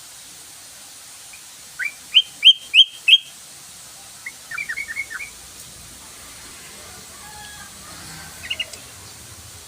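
Yellow-vented bulbul calling: a run of five loud, sharp notes about two seconds in, a quicker, softer chatter about a second later, and a brief few notes near the end.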